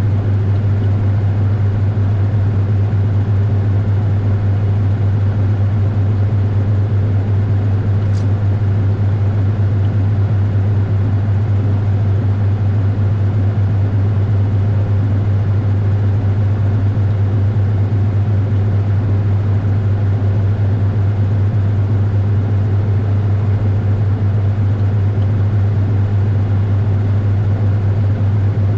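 Washing machine running with a steady low drone, heard from a camera inside the drum, with one faint tick about eight seconds in.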